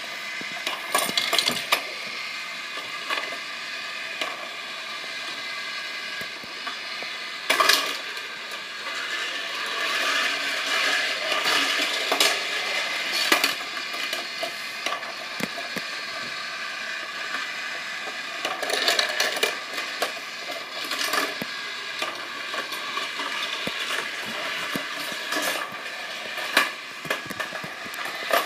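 Small die-cast Tomica toy cars clattering and clicking along a plastic playset, with a steady whir underneath and louder bursts of rattling every few seconds.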